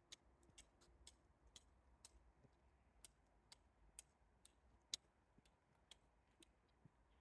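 Near silence broken by faint, irregular ticks, about one or two a second.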